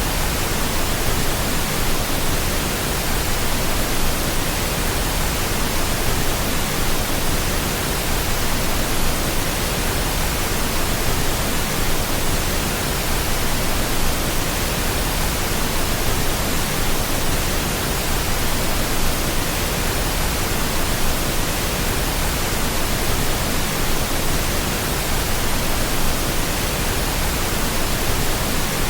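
Steady pink noise: an even, unbroken hiss spread across all pitches, with nothing else in it.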